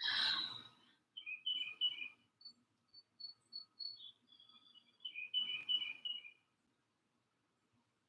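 A songbird singing fast, high phrases of repeated paired notes in two bursts, with steadier single notes between them. A brief breathy whoosh comes right at the start.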